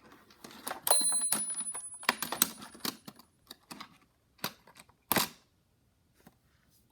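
Hot Wheels toy cars being handled, clicking and clattering: a dense run of clicks for a couple of seconds, then a few single knocks, the loudest a little past five seconds in. A faint high steady ring sounds through the busy part.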